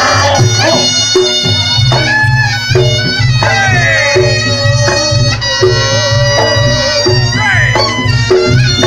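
Reog Ponorogo gamelan music: the slompret's nasal, reedy melody over a steady beat of drums and gongs.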